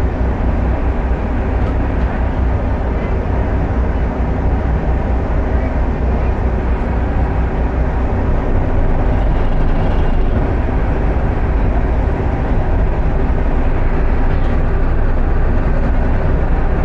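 Passenger ferry's engines running with a steady low drone, heard on board.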